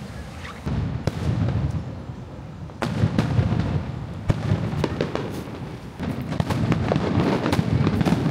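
Fireworks going off: a string of booms and sharp cracks, with bursts of low rumble a few seconds apart.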